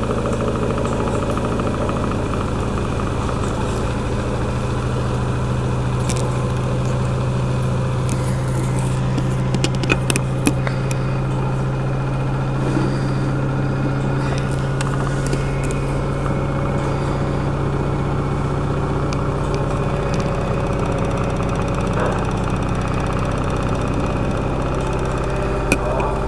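LG washing machine in its final spin, the drum turning at high speed with a steady hum and drone. A few faint ticks or rattles come about a third of the way in.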